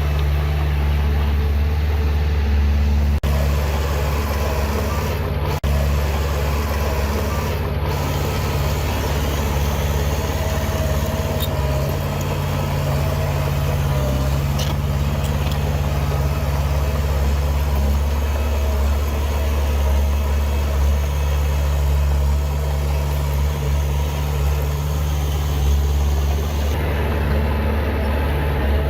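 Heavy diesel engine of earthmoving machinery running steadily at a low, even drone, with a couple of faint clicks early on.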